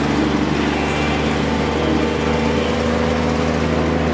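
Truck engines running steadily under load as two trucks pull against each other in a tug-of-war.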